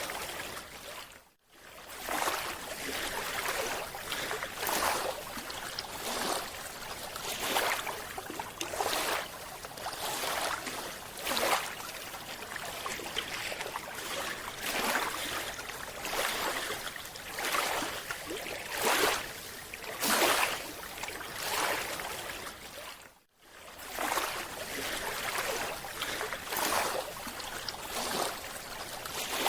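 Rushing, swirling water noise that swells and fades every second or two. The noise drops out briefly twice, about a second and a half in and again near the end.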